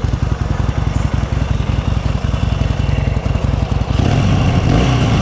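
The 2014 Harley-Davidson Sportster 1200 Custom's air-cooled 1200cc V-twin running with its factory exhaust, a steady fast low pulse, getting louder and fuller about four seconds in.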